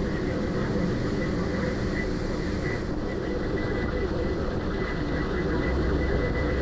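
Ferry's engines running with a steady drone and hum, the even rushing noise of the crossing behind it.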